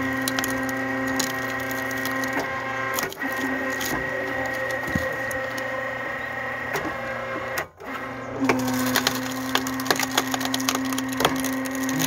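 Hydraulic firewood splitter running with a steady pump hum that shifts in pitch as the ram takes up load, while the log crackles and splinters with many sharp snaps as it splits.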